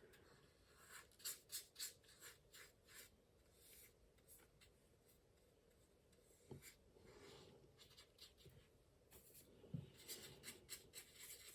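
Faint strokes and dabs of a paintbrush on watercolour paper: short, scattered scratchy touches, with two soft low knocks about six and a half and ten seconds in.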